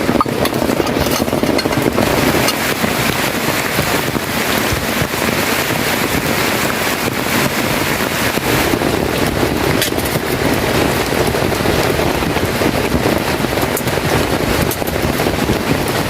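Heavy rain falling, a loud steady hiss with a few sharper taps scattered through it.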